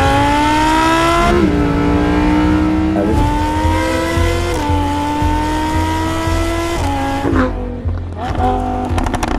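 Lamborghini Huracán's naturally aspirated V10 pulling hard through the gears. The pitch climbs in each gear and steps back at each shift, about four times. It lets off near the end with a short run of sharp crackles.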